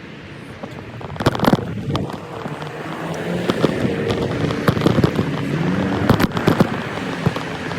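Motorcycle engine running, its pitch rising and falling, with sharp cracks and pops scattered through it, loudest about a second in and again around six seconds.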